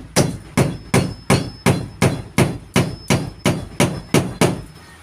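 Hammer striking in a steady run of blows, about three a second, stopping shortly before the end.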